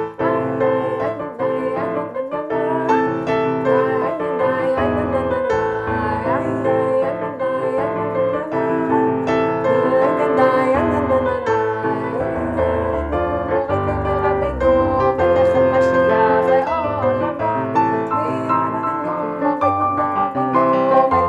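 Keyboard music: an electric-piano sound playing a melody over chords, without a break.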